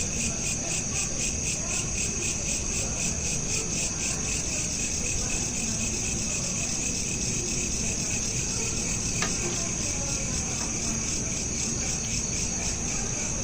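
Crickets chirping steadily in a continuous, evenly pulsing high trill, over a low background rumble. A single faint click about nine seconds in.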